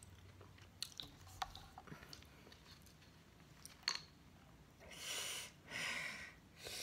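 Close-up mouth sounds of chewing food, with scattered small wet clicks. Two brief rustling sounds come about five and six seconds in, as food is handled.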